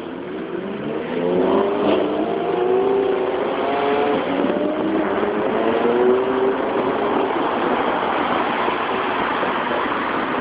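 Car engines accelerating, their pitch rising several times, over a steady rush of road and wind noise.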